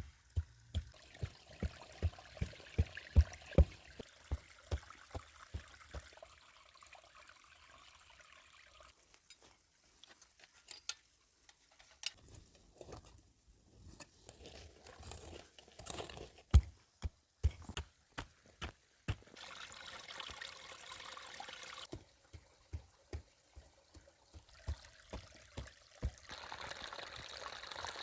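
A series of sharp knocks, quick and regular for the first few seconds, then scattered through the rest. Two short spells of steady hiss come about twenty seconds in and again near the end.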